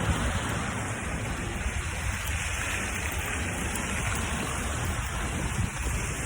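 Steady wind noise of a snowstorm blowing over the microphone, a rushing hiss with a low rumble.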